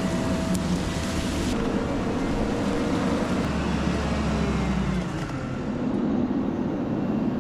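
Heavy equipment engine running steadily with a low drone.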